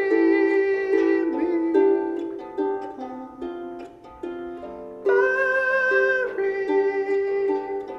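Live acoustic music: plucked string accompaniment under long held melody notes, in a small room.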